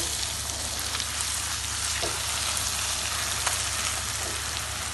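Onion, tomato and spice masala sizzling in hot oil in a nonstick pan while being stirred with a silicone spatula, frying down so the spices cook through. A steady sizzle with a few faint ticks of the spatula.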